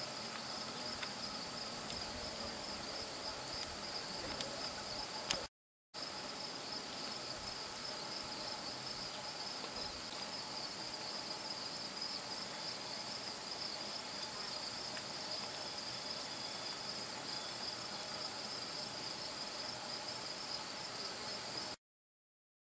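Garden insect chorus: a steady high-pitched trill of singing insects with a pulsing band beneath it. It drops out briefly about a quarter of the way in and stops suddenly shortly before the end.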